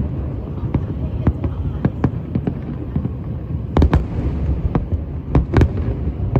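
Fireworks going off: a rapid, irregular run of sharp cracks and bangs over a continuous low rumble, with the heaviest bangs about four seconds in and again about five and a half seconds in.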